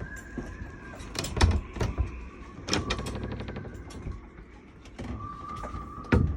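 Sailboat being buffeted by strong wind: irregular knocks, clicks and a short rattle from the boat's fittings, a loud knock near the end, a steady whistling tone, and a low wind rumble.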